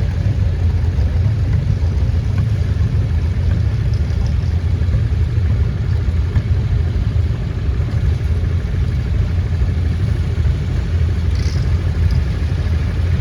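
Vintage farm tractor engine running steadily, its sound strongest at the low end and even in level throughout.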